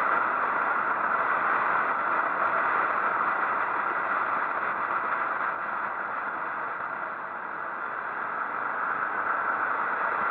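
Steady rushing wind and road noise of a moving motorcycle, with no clear engine note standing out. It eases slightly about seven seconds in.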